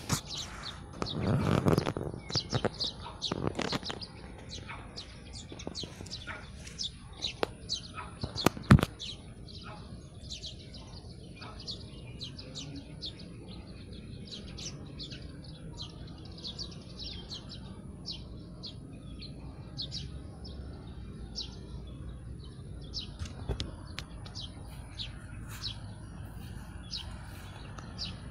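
Many birds chirping in quick, short calls that overlap throughout. There is a brief low rumble a second or so in, and a sharp click about nine seconds in.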